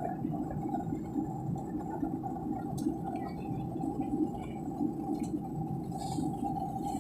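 Airliner cabin noise in flight during the descent: a steady low drone from the engines and airflow, with a constant hum over it.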